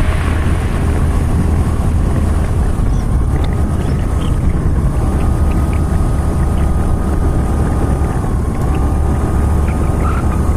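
Motorcycle running steadily on the move, with heavy wind rumble on the microphone.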